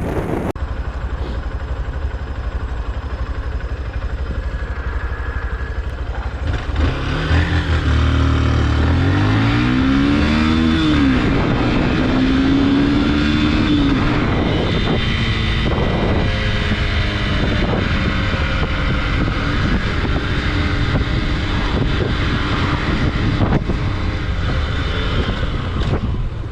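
Motorcycle engine riding along under a steady rush of road and wind noise. From about seven seconds in, the engine note climbs and falls several times as it revs, then settles.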